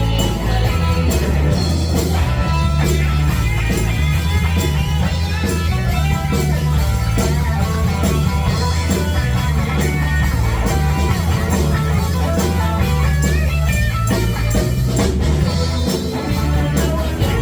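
Live rock band playing an instrumental passage: guitar over a steady bass line and drum kit, with no vocals.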